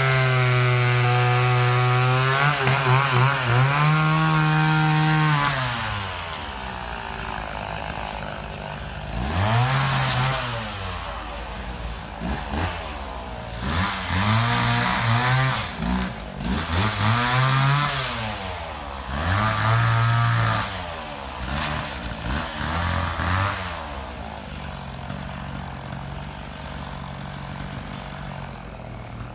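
Two-stroke chainsaw held at high revs, dropping to idle about six seconds in. It is then revved up and let back down several times before settling at a steady idle near the end.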